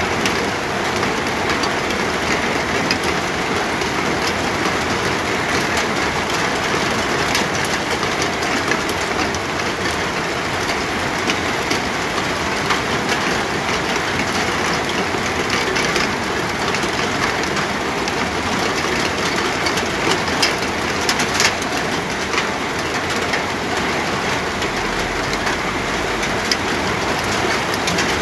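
Steady rain falling, with a continuous hiss and many small drop impacts ticking through it.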